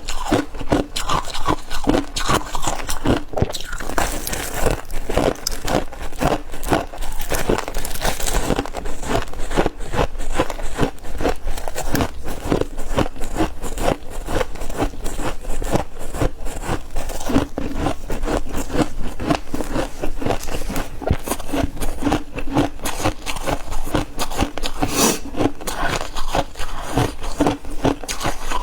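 Close-up biting and chewing of refrozen freezer frost chunks: a continuous run of rapid, squeaky crunches.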